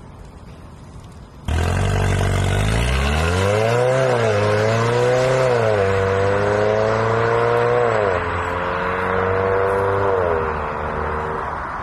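Mercedes-AMG A45 W177's turbocharged four-cylinder engine through a CGW aftermarket exhaust, bursting into sound about a second and a half in. The exhaust note climbs in pitch, then drops and climbs again several times, and fades near the end.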